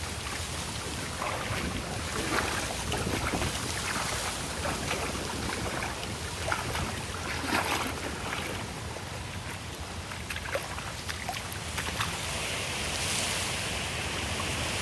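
Shallow stream water running and splashing during a crossing at low tide, with wind on the microphone.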